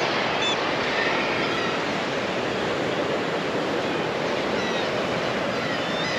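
Steady rush of sea surf, with a few faint, short high bird calls near the start and again near the end.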